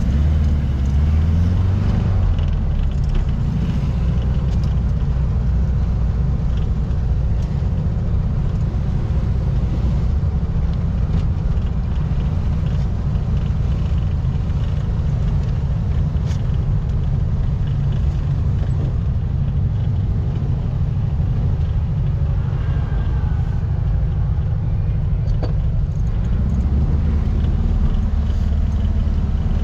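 Air-cooled 1700cc flat-four engine of a VW Baja Bug running while driving, a low engine note with some hiss of road noise. The engine note rises and falls in the first couple of seconds, then holds steady, and gets stronger again near the end.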